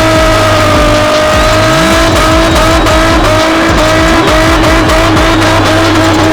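Drift car's engine held at high, nearly steady revs while the car is driven sideways, its pitch wavering slightly, with tyre and crowd noise underneath.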